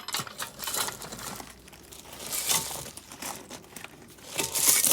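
Suspension strut parts being handled and fitted together by hand: irregular crinkling, scraping and light clicks, loudest near the end.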